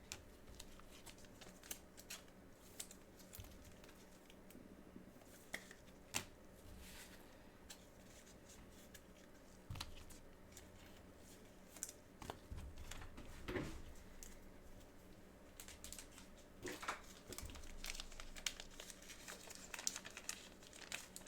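Faint crinkling and tearing of trading-card packaging, with scattered light clicks and taps as cards and boxes are handled, busier in the second half.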